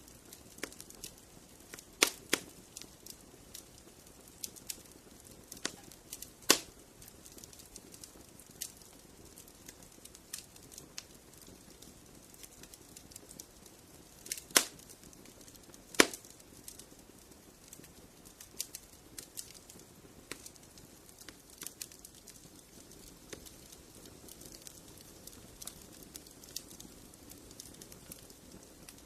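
Wood fire in a fireplace crackling, with irregular small snaps and a handful of louder sharp pops over a soft low hiss.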